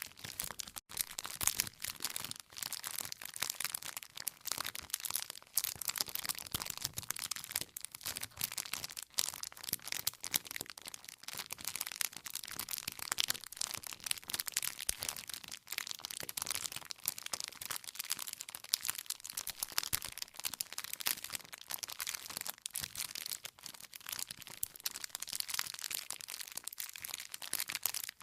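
Campfire of burning firewood crackling steadily, a dense run of quick pops and snaps.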